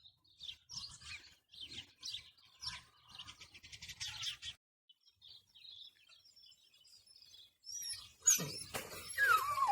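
Birds chirping in short, repeated high calls, busiest in the first half and fainter after. Near the end louder sounds come in, closing with an animal call that slides down in pitch.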